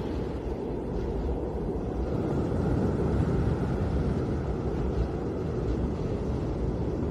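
Snowstorm wind blowing steadily: an even, low rush of noise with no separate events.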